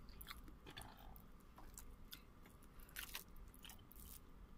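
Faint chewing and mouth sounds of a person eating rice and chicken with her hands: scattered short wet clicks and smacks, the loudest about three seconds in.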